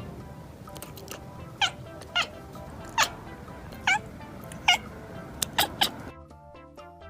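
A cat meowing in a run of short, sharp cries, about seven in all, over background music; the cries stop about six seconds in and only the music carries on.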